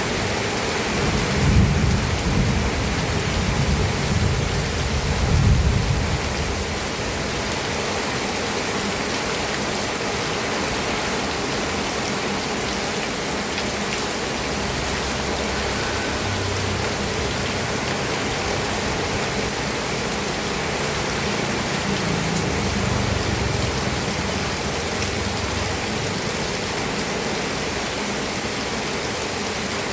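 Steady rain falling, with low rumbles of thunder that swell twice in the first several seconds and once more about two-thirds of the way through.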